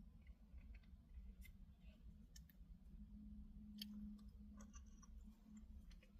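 Near silence: a faint low hum with a few scattered faint clicks.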